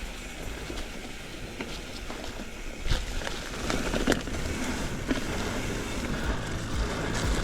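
Mountain bike rolling along a dirt forest singletrack: steady tyre and wind noise, with a few sharp knocks and rattles as the bike goes over bumps, the clearest about three and four seconds in.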